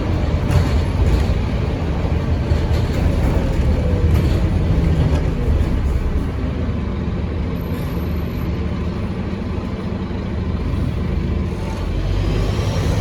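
Scania N230UD OmniCity bus's diesel engine running under way, with a few clicks or rattles in the first few seconds. The engine noise eases off in the middle and builds again near the end, where the turbocharger's rising whine comes in.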